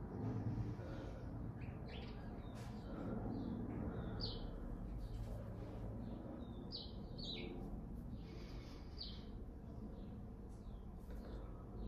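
Small birds chirping in short, scattered high calls, over a steady low background rumble.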